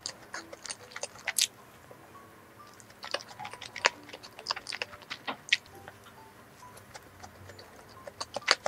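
Close-up mouth sounds of a person chewing a soft, cream-filled donut: sticky, wet smacks and clicks that come in bunches with short pauses.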